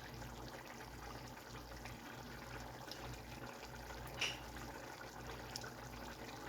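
Faint, steady bubbling hiss of a pot of seasoned chicken cooking down, with one short knock about four seconds in.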